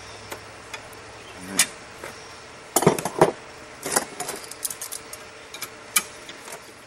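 Irregular metal clinks and taps of hand tools against steel as the wrapped railroad spike is worked and straightened in a vise, with the loudest cluster about three seconds in.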